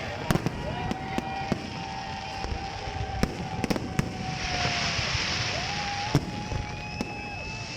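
Fireworks display: a scatter of sharp bangs and crackles over a rushing hiss, with a long steady tone sounding behind them twice.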